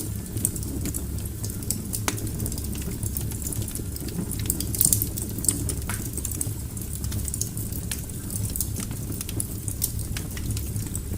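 Wood fire burning in a fireplace: irregular crackles and snaps over a steady low rumble, with a few louder pops.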